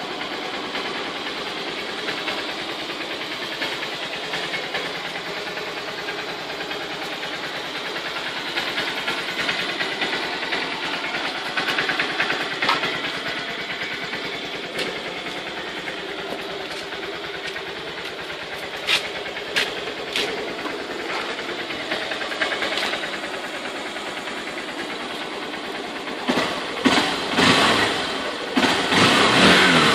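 Honda CBF150's single-cylinder four-stroke engine idling steadily after a cold start. A few sharp clicks come in just before the middle, and near the end the throttle is blipped several times, the revs rising and falling.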